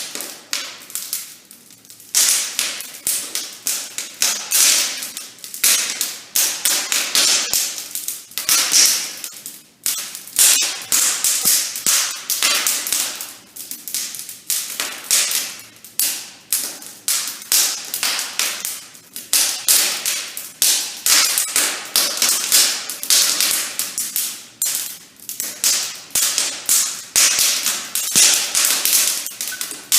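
Firewood crackling in a newly built brick wood-burning fireplace: irregular sharp snaps, several a second, without a break.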